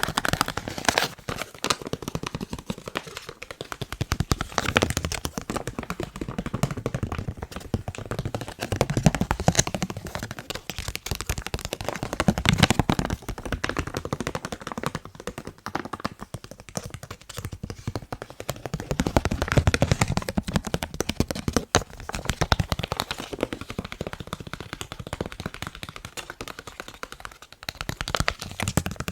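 Fast, dense fingertip tapping on a face mask, with the clicks swelling louder and softer in waves.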